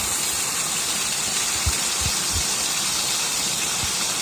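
Steady rushing of water, a loud, even hiss, with a few low thumps under it.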